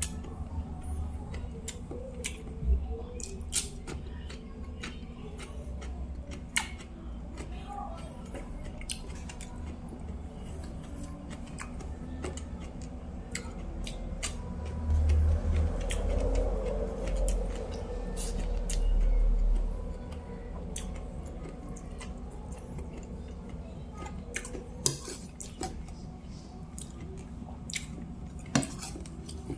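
Close-up eating sounds: chewing of rice and sautéed string beans, with scattered sharp clicks of utensils on a plate. There are a few seconds of louder low rumble around the middle.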